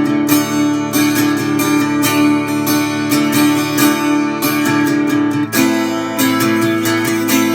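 Acoustic guitar strummed in a steady rhythm, with no singing; the chord pattern changes about five and a half seconds in.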